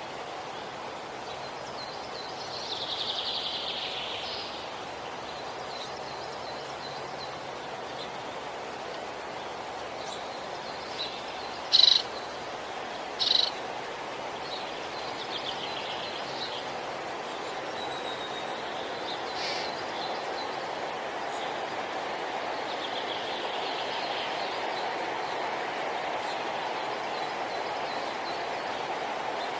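Indigo bunting singing: a few high, quick warbled song phrases spaced several seconds apart, with two short, louder sharp notes near the middle, over a steady background hiss.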